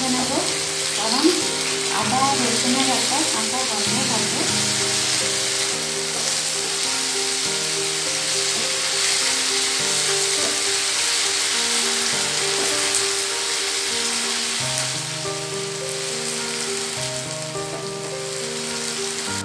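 Chopped onion, tomato and ginger-garlic paste sizzling as they fry in a nonstick pan, stirred with a spatula. There is one sharp knock about a second in. Soft background music with held notes plays underneath.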